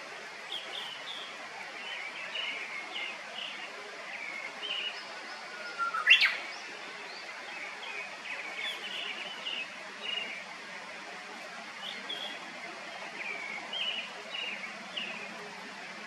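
Birds calling in woodland: short high chirps repeat every second or so throughout. About six seconds in, one loud whistled note glides upward and then sweeps sharply higher.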